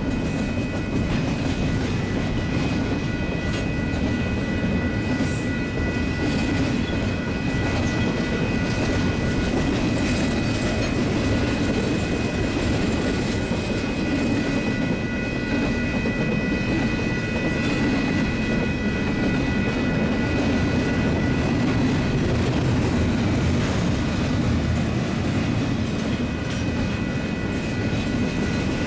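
Union Pacific double-stack intermodal freight train rolling by at speed, a steady rumble of wheels with clickety-clack over the rails, as the trailing locomotive passes and stacked container well cars follow. A grade-crossing bell rings steadily over it.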